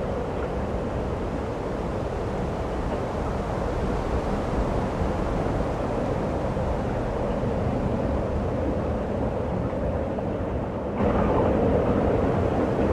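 Steady rumbling noise with no clear tone, stepping up suddenly to a louder, brighter rumble about eleven seconds in.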